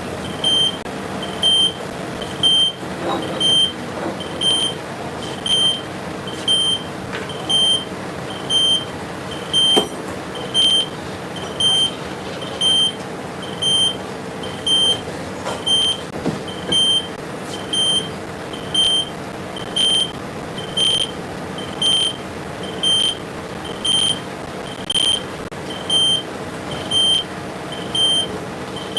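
An electronic beeper sounding a short, high beep about once a second, over the steady hum of running workshop machinery.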